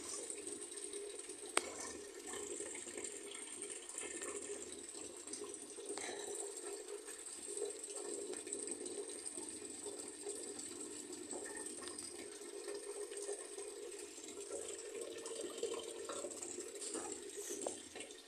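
Water running in a steady stream, which stops near the end.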